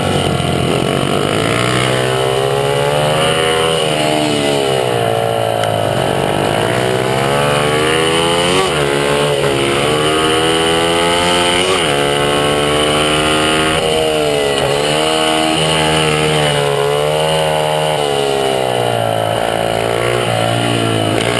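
Honda CRF50 pit bike's small single-cylinder four-stroke engine running hard under race throttle, its revs climbing and dropping over and over, with two sharp drops in pitch near the middle.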